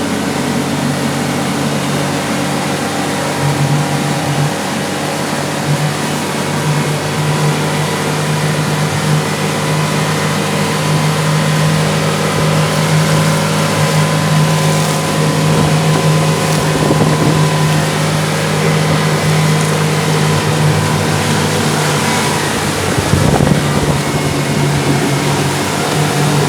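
Motorboat engine running steadily at speed while towing a banana boat, its hum holding one pitch, with rushing water and wind on the microphone.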